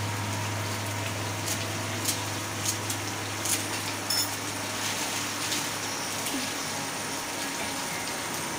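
Pepper chicken fry cooking in an aluminium pan on a gas stove: a steady soft sizzle with scattered small ticks as coriander leaves are mixed in by hand, over a low steady hum.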